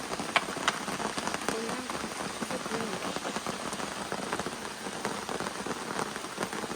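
Steady heavy rain falling, with many individual drops striking close by and a few louder drop hits within the first second.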